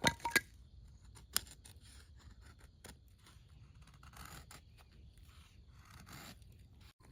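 Firewood being split: several sharp knocks in quick succession at the start, single knocks about a second and a half and three seconds in, then softer scraping and rustling of the wood.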